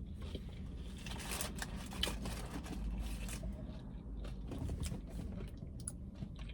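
Close-up crunching, scraping and rustling from a takeout burger meal: food being eaten and its paper and cardboard packaging handled, with many small clicks.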